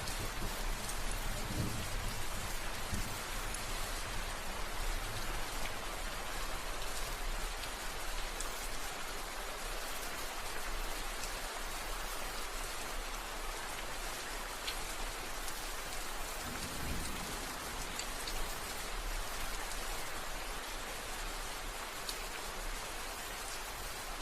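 Steady rain, an even hiss with scattered single drops ticking; a low rumble fades out within the first couple of seconds.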